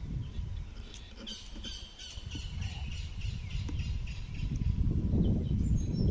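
Wind rumbling on the microphone, easing a second or two in and rising again near the end, while a bird gives a quick series of short chirping calls.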